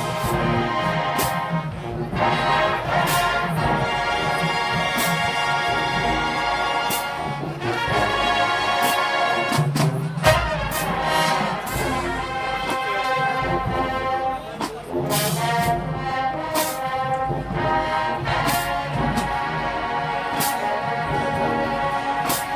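Marching band brass section playing an arrangement of a classic soul song, with sustained horn chords and drum and cymbal hits.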